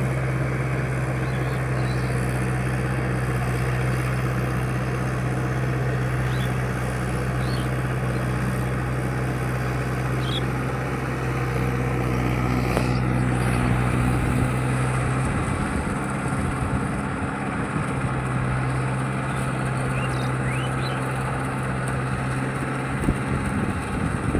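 Mahindra 585 tractor's diesel engine running steadily. Its note changes and wavers briefly about two-thirds of the way through, then settles again.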